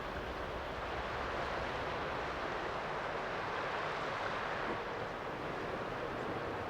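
Steady, even rushing noise with no distinct events or pitched sounds.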